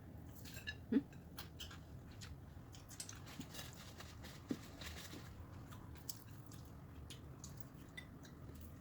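A person chewing food up close, with small wet mouth clicks and squishes. A soft knock comes about a second in.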